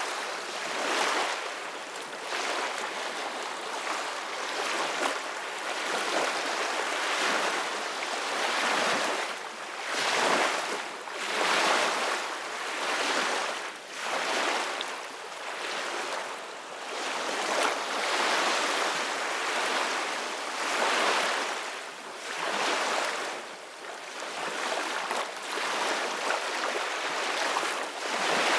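Gentle ocean waves washing in, a hissing wash of surf that swells and fades every couple of seconds.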